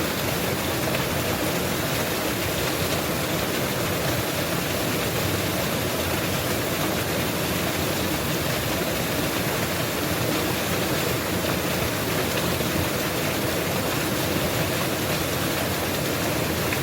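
Mountain waterfall rushing in a steady, even roar of falling water.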